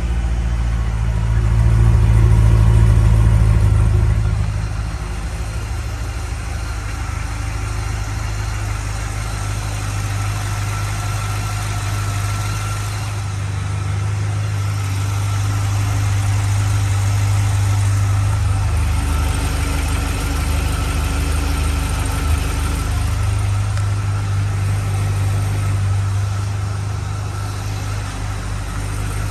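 2009 Corvette Z06's 7.0-litre LS7 V8 idling on a cold start, with oil temperature still low. It runs louder for a couple of seconds near the start, then settles into a steady idle.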